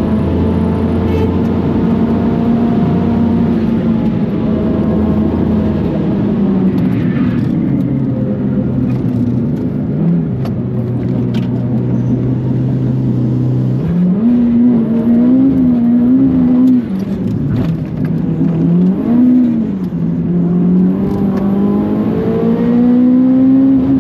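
Modified Mitsubishi Colt R's turbocharged 1.5-litre engine running hard on a track lap. The revs sink slowly for several seconds, hold low, then jump up about halfway through and stay high, dip sharply, and climb again near the end as the car accelerates.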